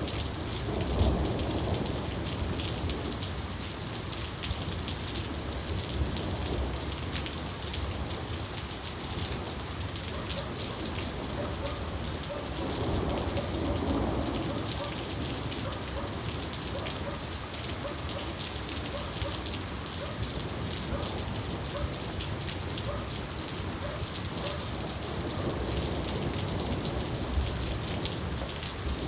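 Steady heavy rain falling, with many separate drop hits, and low rolls of thunder swelling about a second in and again about halfway through.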